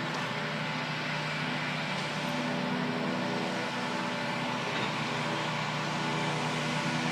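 A train backing slowly along the track: a steady diesel engine drone with its even hum, over the noise of the rolling cars.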